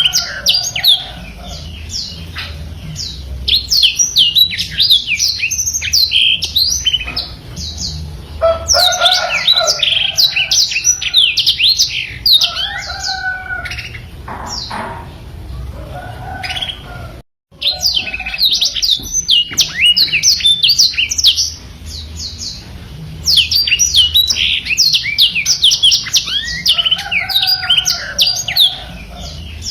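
Black-throated canary (blackthroat) singing a long, fast song of rapid high twittering notes in runs separated by short pauses. The sound cuts out briefly a little past halfway.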